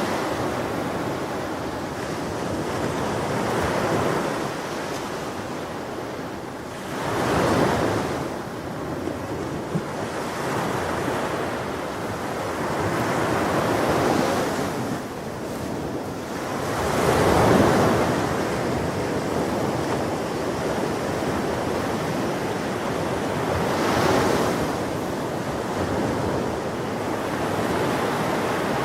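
Ocean waves breaking on a shore: a steady wash of surf with a louder wave crashing every several seconds, the biggest about two-thirds of the way in.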